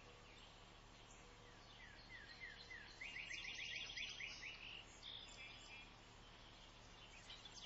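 Faint songbird calls in a quiet woodland: a few short down-slurred notes about two seconds in, then a quick run of repeated notes, over a soft background hush.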